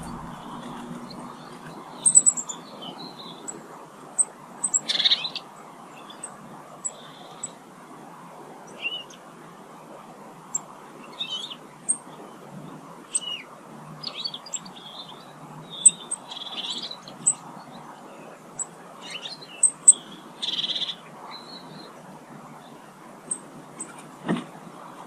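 Small garden birds calling: scattered short chirps and thin high whistles, irregular throughout, over a steady low background hiss. One brief knock near the end.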